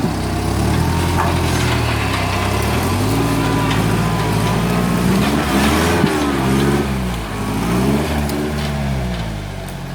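An off-road vehicle's engine revving up and down again and again under load as it climbs a rocky waterfall ledge, its pitch rising and falling several times.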